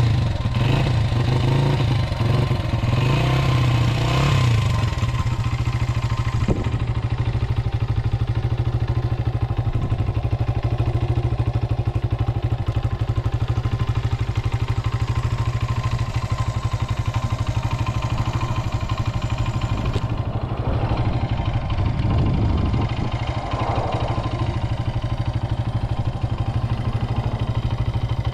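1980 Honda XR80's small four-stroke single-cylinder engine running steadily at idle just after a cold start, a fast, even putter.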